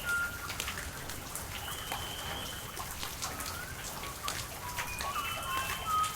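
Steady rain falling, with many separate drops ticking close by. A bird gives a series of short whistled calls, some held on one note and some sliding upward.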